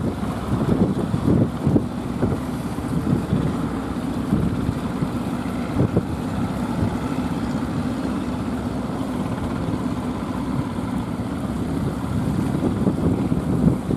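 Strong wind buffeting the microphone: a steady low rumble that swells in gusts during the first few seconds.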